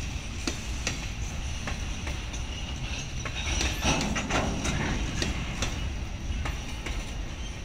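Freight train boxcars rolling past: a steady low rumble with irregular sharp clicks and clacks from the wheels, and a louder rattle about four seconds in.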